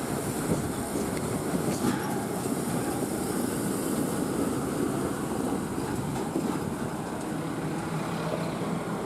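Heavy tipper lorry's diesel engine running, a steady low rumble.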